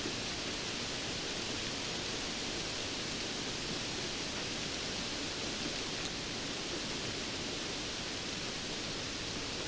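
Steady rainfall: an even, unbroken hiss with a faint tick or two from single drops.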